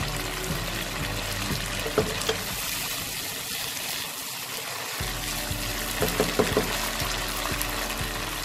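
Chopped onions and cumin–red chilli paste sizzling and bubbling in hot oil in a wok. There are a few short knocks of a wooden spatula against the pan about two seconds in and again around six seconds.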